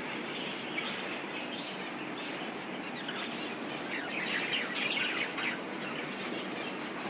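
Budgerigars chirping and chattering in short high calls over steady background noise, with a louder flurry of chirps about halfway through.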